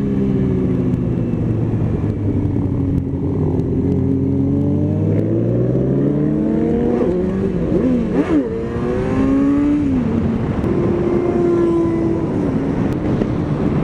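Motorcycle engine under way: it runs steadily, then climbs in pitch as the bike accelerates, changes pitch abruptly about halfway through as a gear is shifted, and settles back to a steady cruise, with road and wind noise underneath.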